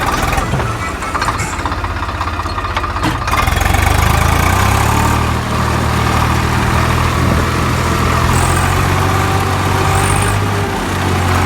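Tractor engine running at a steady idle, its low hum growing stronger about three and a half seconds in.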